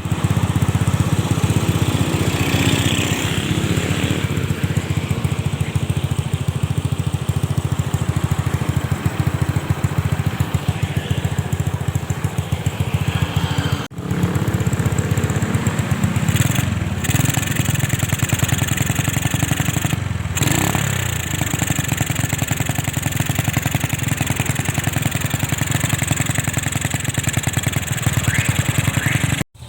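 Honda Grand 100cc single-cylinder four-stroke engine running steadily through an aftermarket SR racing exhaust, fed by an oversized 30 mm carburettor: a fast, even train of exhaust pulses. The sound breaks off briefly about halfway through and again near the end.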